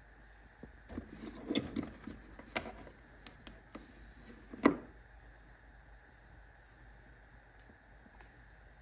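Small hard objects being handled: a quick flurry of light clicks and knocks, then one sharp knock near the middle, over faint room hum.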